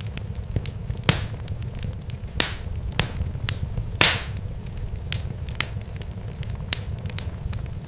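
Irregular sharp crackles and pops over a steady low rumble, with a few louder pops, the loudest about four seconds in.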